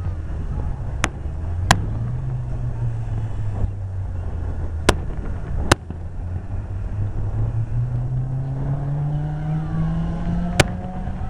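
Aerial fireworks bursting in five sharp bangs, two close together about a second in, two more around five seconds in and one near the end, over a steady low drone that rises in pitch over the last few seconds.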